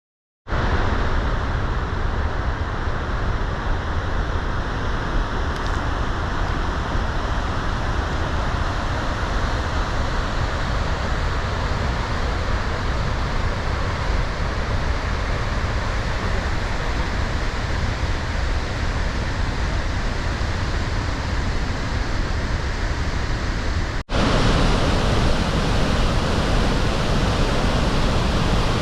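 Steady rush of water from a waterfall, starting abruptly just after the start. About 24 s in it breaks for an instant and comes back louder and brighter.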